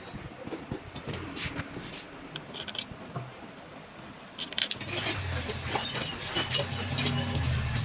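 Light metallic clinks and taps of tools and parts being handled during engine reassembly. About halfway through, a louder low steady rumble comes in beneath the clinks.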